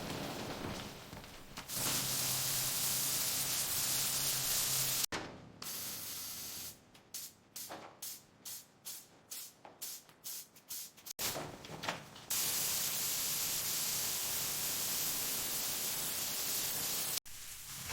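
Pressurised spray hissing in long steady stretches, broken in the middle by a run of short quick bursts, about three or four a second.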